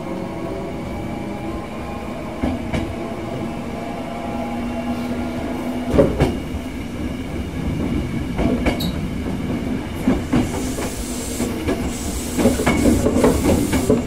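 Hankyu 6300 series electric train running, heard from inside the passenger car: a steady rumble with a humming whine in the first half. Wheels clack over rail joints a few times, with a quicker run of clacks near the end.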